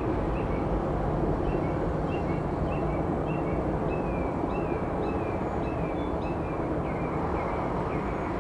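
Small birds chirping over and over in short high notes, a few a second, over a steady low rumble of distant airport jet traffic.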